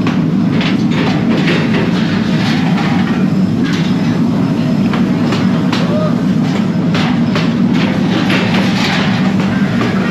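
Factory machinery running with a steady low hum, over irregular metallic knocks and clatter.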